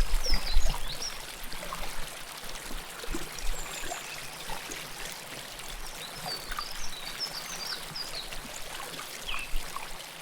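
River water flowing and trickling close up, a little louder in the first second and then steady, with birds chirping now and then.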